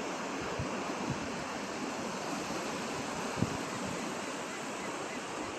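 Steady rush of ocean surf with wind buffeting the microphone, and one brief low thump about three and a half seconds in.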